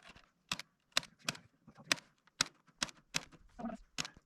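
A series of sharp, irregular clicks and taps, about ten in four seconds.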